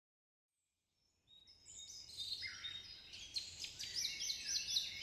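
Silence, then an outdoor chorus of songbirds fading in about a second in: many overlapping chirps and whistles over a faint low background hum.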